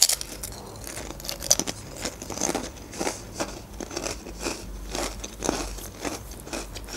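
Potato chip being bitten and chewed, a quick irregular run of crisp crunches.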